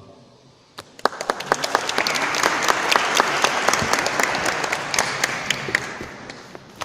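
Audience applauding: a few first claps about a second in, swelling into full applause, then thinning out near the end.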